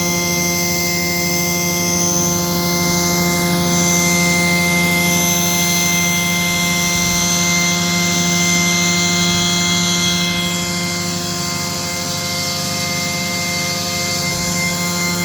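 Woodworking machine for cutting wooden slats running steadily, with a constant motor hum and whine under a high hiss.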